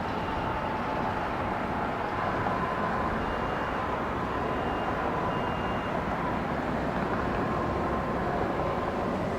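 Jet aircraft engines running steadily, an even noise with a faint high whine over it.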